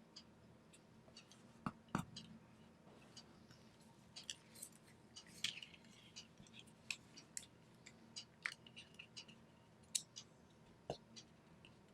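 Faint, irregular crinkles and soft taps of origami paper being handled, folded and creased.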